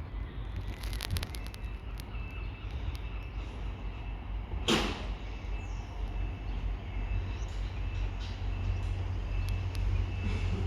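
A train's engine rumbling low and steady at the station, growing louder towards the end. There are a few light clicks about a second in and a short, sharp burst of noise about halfway through.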